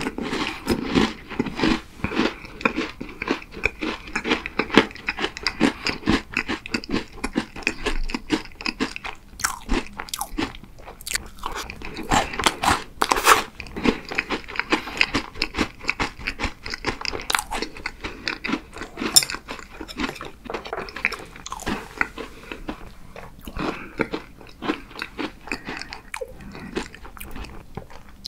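Close-miked chewing of a crisp cookie: a dense run of rapid crunches and bites.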